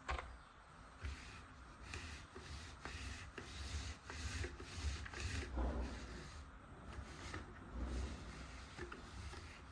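Toy tool pieces being handled, with irregular rubbing and scraping strokes and a sharp click at the start.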